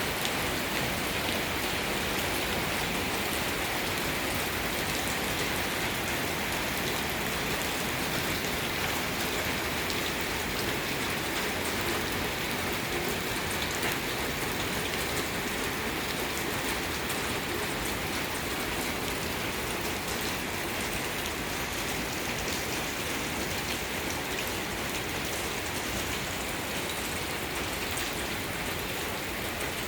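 Heavy rain falling steadily: a dense, even hiss with countless drops pattering on hard surfaces.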